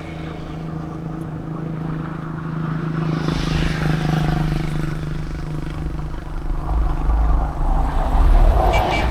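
Suzuki Carry Pro mini truck's engine running on the move: a steady hum, with a louder low rumble building over the last couple of seconds.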